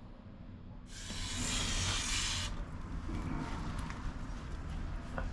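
A loud hiss lasting about a second and a half, starting about a second in, over a low steady hum, with a few light clicks after it.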